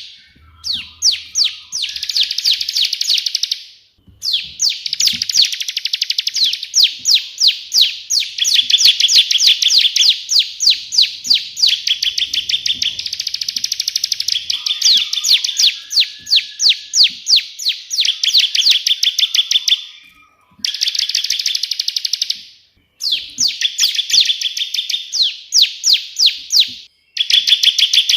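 Bar-winged prinia (ciblek) singing its rapid 'tembakan' song: long runs of fast, evenly repeated high, sharp notes. The runs break off for a moment several times.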